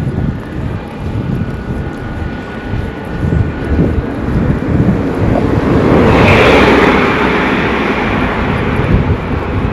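Wind buffeting the microphone in low gusts. A vehicle passes close, rising to a loud whoosh about six seconds in and fading away.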